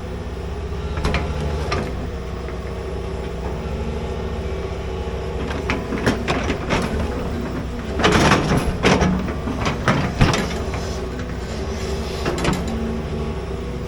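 Large excavator working: its engine runs steadily, with loud clanks and scrapes of metal and earth about eight to ten seconds in and a few lighter knocks elsewhere.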